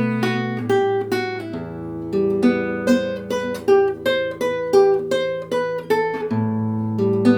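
Instrumental acoustic guitar music: fingerpicked notes, a few a second, ringing over long held bass notes.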